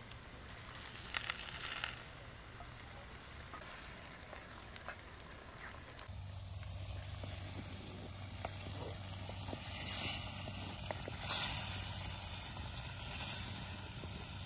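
Cornmeal patties (corn pone) sizzling as they fry in a cast-iron skillet over a campfire: a steady hiss with a few faint ticks.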